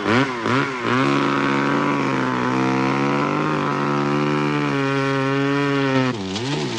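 Chainsaw running at high revs, its pitch dipping and recovering several times in the first second and again near the end, holding steady in between.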